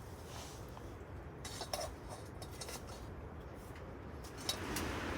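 Utensil clinking and scraping against a dish of noodles: a few light clicks, then a sharper knock about four and a half seconds in, over a steady low rumble.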